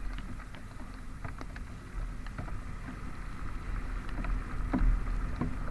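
Honda Vario single-cylinder automatic scooter running at a steady cruise, with a constant low rumble of engine and road noise and scattered small clicks and knocks. It gets a little louder near the end.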